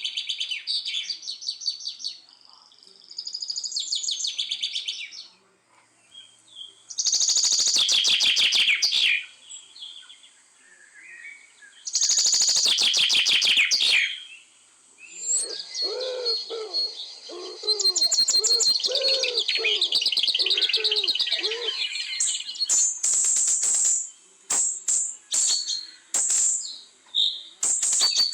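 Several birds chirping and calling: loud bursts of rapid, high trilled chatter about seven and twelve seconds in, a run of lower repeated calls in the middle, then quick short chirps toward the end.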